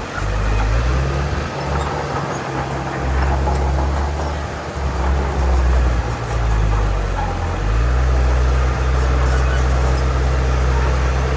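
Heavy diesel earthmoving machinery running, its low engine drone shifting in pitch as it works, then steadier and stronger in the second half.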